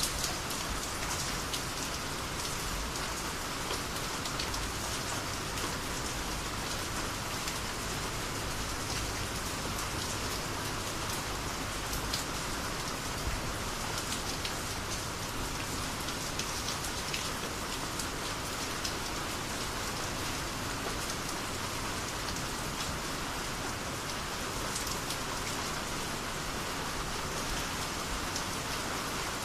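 Steady rainy-season rain falling, a constant even hiss with many small drop ticks throughout.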